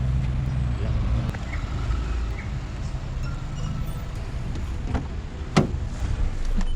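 Lexus IS250's 2.5-litre V6 running at low speed as the car reverses, with a sharp knock about five and a half seconds in.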